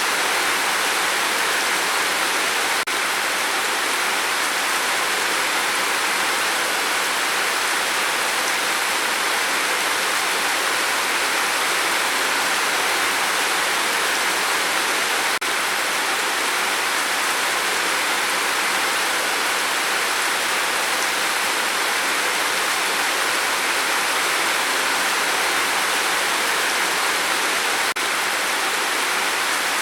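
Steady rain falling, a constant even hiss of water with no change in strength.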